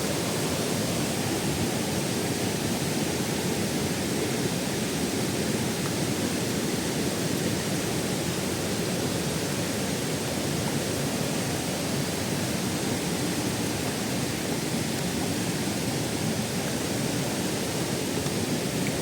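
Waterfall: water pouring and rushing with a steady, unbroken roar.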